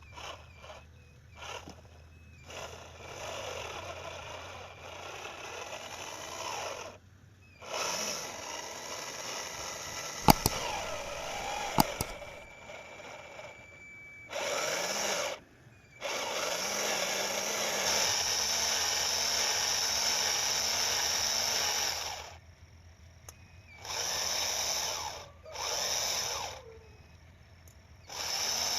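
Small electric motors of a homemade RC tractor rig whining in separate runs of one to six seconds, each starting and stopping abruptly, with two sharp clicks about ten and twelve seconds in.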